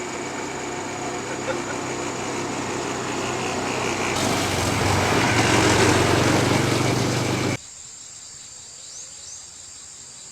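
Small engine running steadily and growing louder, cut off suddenly a little past halfway; after that a steady high buzzing of insects.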